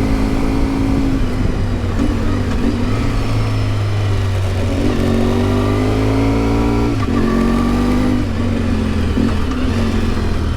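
1992 Yamaha XTZ 750 Super Ténéré's parallel-twin engine running under way. Its note climbs and then drops a few times as the rider works the throttle and gears.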